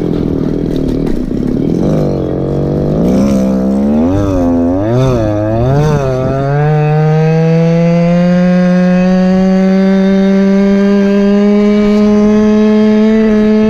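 Go-Ped scooter's small Chung Yang CY26RC two-stroke engine running. Its revs rise and fall several times in the first half, then its pitch climbs slowly and steadily as the scooter accelerates.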